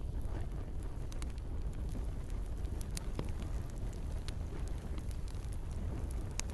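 Campfire burning with gentle rain falling: a steady low rumble under scattered sharp crackles and pops, one of the loudest pops near the end.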